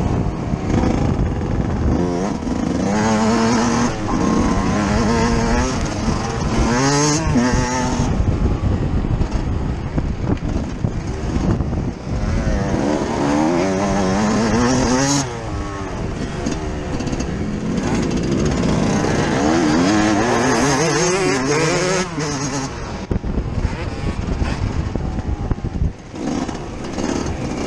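Yamaha YZ125 two-stroke motocross engine heard on board, revving up and dropping back again and again as the bike is ridden round a track.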